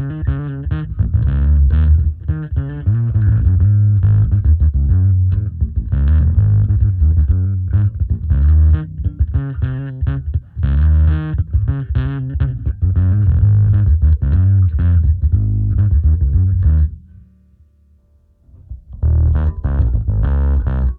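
Electric bass played with overdrive through a cabinet impulse-response simulation, a busy line of low notes with the top end cut off. The playing stops about 17 seconds in and starts again briefly near the end.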